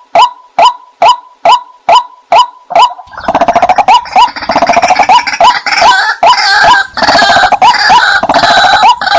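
White-breasted waterhen calls, the kind played to lure waterhens in: a steady series of single 'kwak' notes about two a second, then about three seconds in a louder, dense run of overlapping croaking and cackling calls that lasts to near the end.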